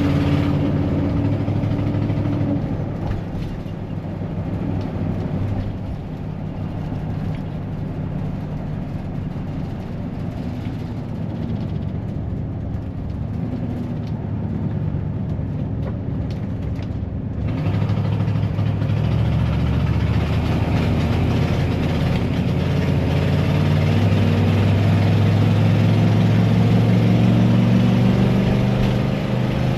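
Ford 460 big-block V8 of a 1996 Coachmen RV running on the road, with the rough note of a leaking exhaust manifold that kind of sounds like a World War I biplane. The engine eases off a few seconds in, then builds again from a little past halfway and is loudest near the end as it accelerates.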